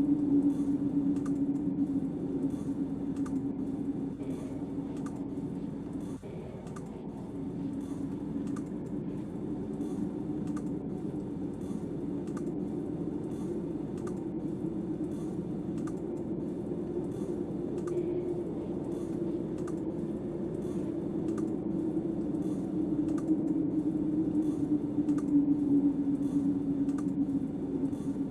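Snowstorm wind moaning steadily around the shelter, swelling and easing slowly, with a light regular ticking about twice a second.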